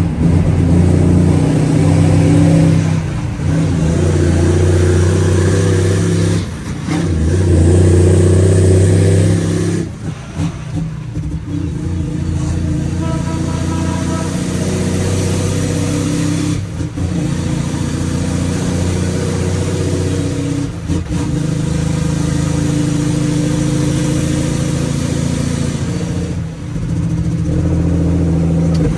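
Straight-piped Cummins ISX inline-six diesel truck engine running loud under load. Its note breaks off briefly about six times, every few seconds, as the 18-speed transmission is shifted through the gears.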